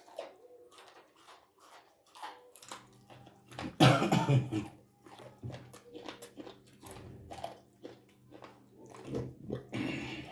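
Close-up eating sounds of a person chewing and gnawing on boiled soup bones and ugali: a run of short crunches and mouth clicks, with a louder burst about four seconds in and another near the end.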